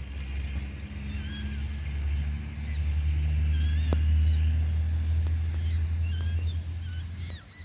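High, thin peeping calls of waterbird chicks, short rising-and-falling chirps repeated many times over a steady low rumble that is the loudest sound and swells in the middle.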